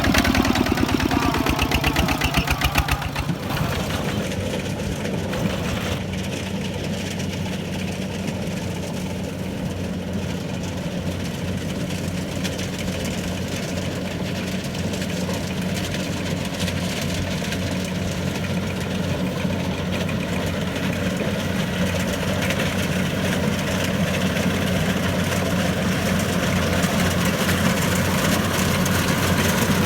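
Kubota DC-70 Plus combine harvester's diesel engine running steadily with a low, even hum. It is louder and rougher for the first three seconds or so, then settles.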